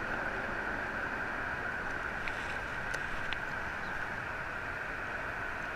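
A truck's engine idling steadily, heard as an even drone under a constant hiss, muffled through an old GoPro's microphone.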